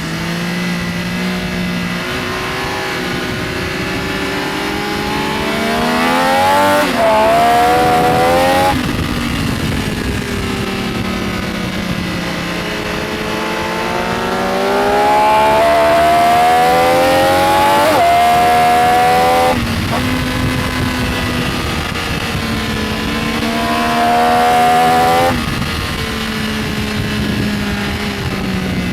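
Benelli Tornado Tre 900's inline three-cylinder engine pulling hard on a track lap, its pitch climbing under throttle and breaking off sharply several times at quick upshifts, then falling back as the throttle closes.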